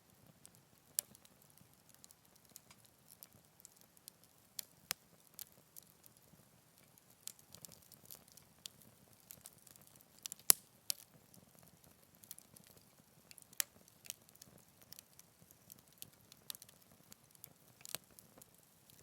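Wood fire burning in a Picogrill 398 fire pit, crackling with scattered sharp pops and snaps at irregular intervals over a faint steady hiss. The loudest snap comes about halfway through.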